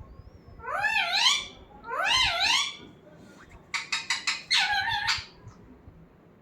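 Pet parrot calling: two drawn-out calls that rise and then fall in pitch, followed about three seconds in by a quick run of short notes and one longer call.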